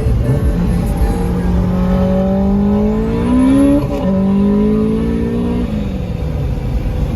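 Honda del Sol with a full 4-inch exhaust accelerating under load. Its engine note climbs, drops with an upshift about four seconds in, climbs again, then falls as it eases off near the end.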